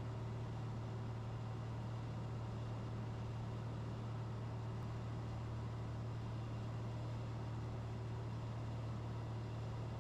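Cessna 182RG's engine and propeller running steadily in flight, heard in the cockpit as an even low hum.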